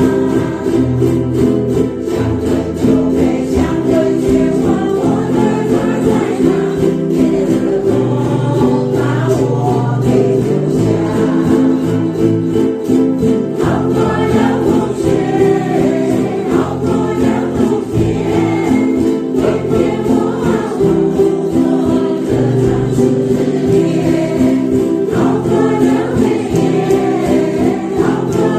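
A group of voices singing together to strummed ukulele accompaniment.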